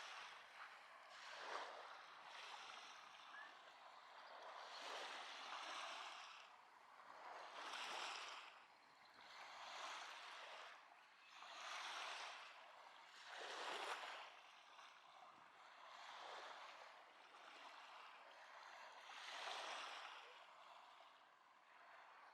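Small lake waves washing onto a beach, faint, each swell of hiss rising and falling about every two seconds.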